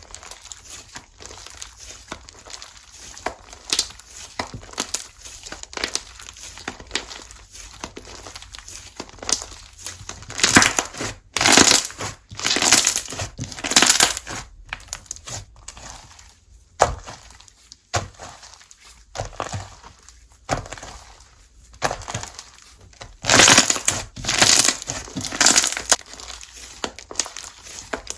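Hands squishing, pressing and stretching slime, giving crackly, crinkling pops. Louder clusters of pops come about ten to fifteen seconds in and again near the end.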